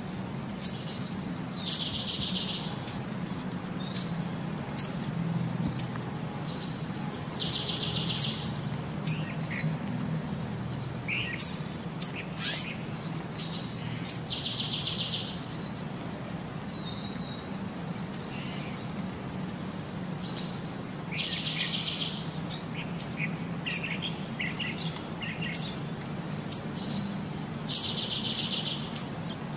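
A background track of bird chirps: short high chirps about once a second, with a longer trill about every six seconds. A low steady hum runs underneath.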